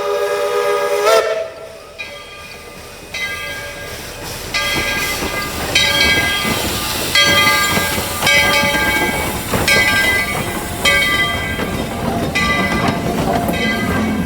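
Steam locomotive's chime whistle blowing a held chord that cuts off about a second in, followed by the locomotive's bell ringing in slow, even strokes, about one every 1.2 seconds, over a background of steam hiss.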